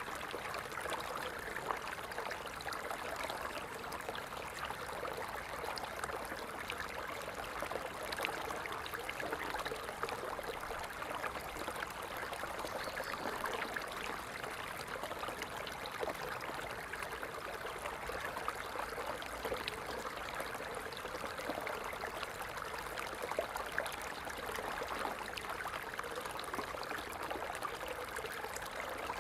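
Water falling and splashing in a steady stream, an even rushing with fine crackling splashes.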